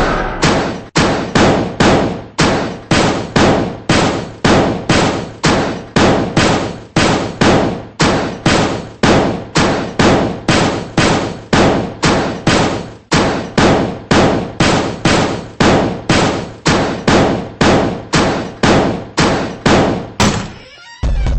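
A loud, sharp knock repeating evenly about twice a second, each stroke dying away quickly; it stops shortly before the end.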